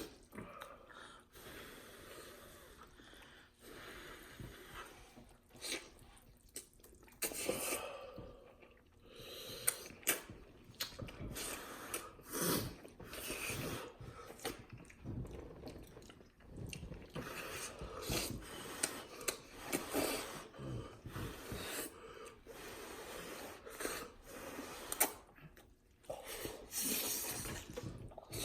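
Slurping and chewing of cheesy ramen noodles, a run of irregular wet mouth clicks and sucking swishes with breaths between mouthfuls.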